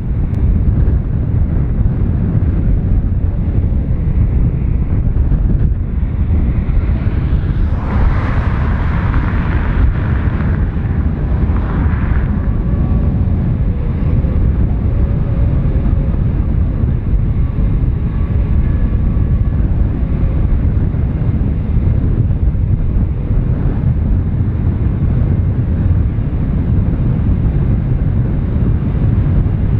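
Boeing 787-8 Dreamliner coming in to land, its jet engines heard as a steady low rumble mixed with heavy wind buffeting on the microphone. A brighter engine rush swells for a few seconds about eight seconds in, followed by faint steady engine tones.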